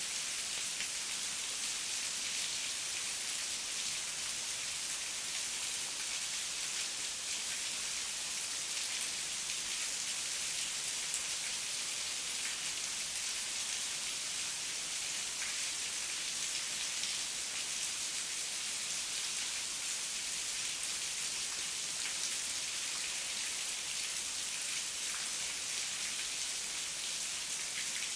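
Heavy rain falling steadily, a dense hiss of drops with fine patter and no thunder.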